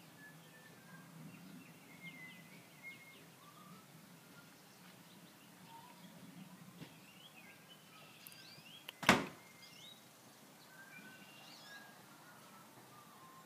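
Songbirds chirping and calling with short, scattered notes over a faint low hum, broken by a single sharp knock about two-thirds of the way through.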